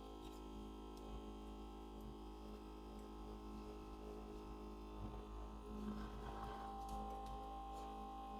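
Steady electrical hum of an LCD screen separator machine with its vacuum pump running, several fixed tones together; a higher whine grows stronger about six seconds in.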